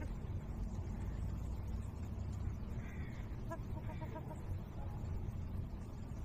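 A few short, harsh bird calls in a cluster about halfway through, over a steady low rumble.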